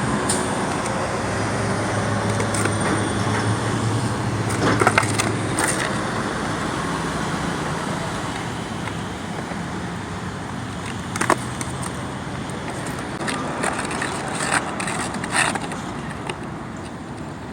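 Skateboard rolling on pavement with a steady wheel rumble, broken by a few sharp clacks of the board hitting the ground during freestyle tricks.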